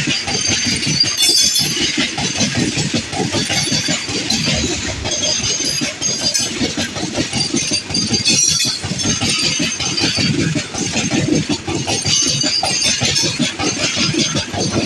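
Train running on the track, its wheels clattering steadily over the rails along with a rushing noise.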